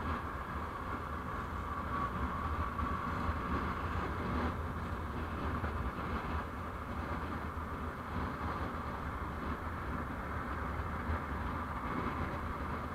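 Steady road and engine noise of a vehicle on the move, picked up by an onboard dashcam: a continuous low rumble with a hiss above it and no distinct events.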